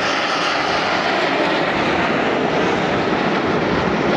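Aermacchi MB-339 PAN jet trainers flying past, a loud, steady jet engine noise.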